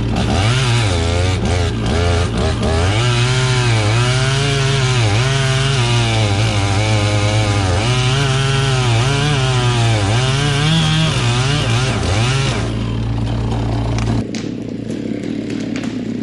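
Chainsaw cutting into a tree trunk, its engine pitch dipping under load and recovering again and again as the chain bites. About twelve and a half seconds in, the saw comes off the cut and the engine drops back.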